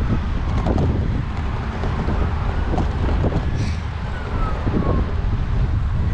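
Wind buffeting the microphone of a bike-mounted action camera while riding, a steady low rumble. A faint high gliding tone comes and goes around the middle.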